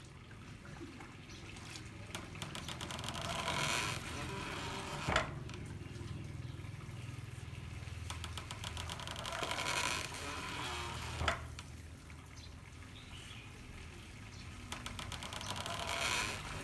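Handmade water-powered corn mill: water pouring and splashing in surges, with a sharp knock about every six seconds, twice in all, each one following a surge of water.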